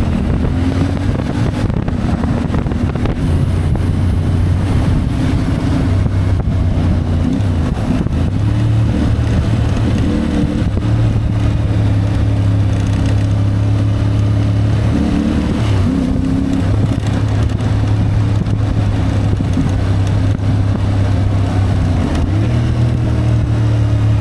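CFMoto 450MT's parallel-twin engine running under way, its note dipping and picking up again a few times as the throttle changes, with some wind on the microphone.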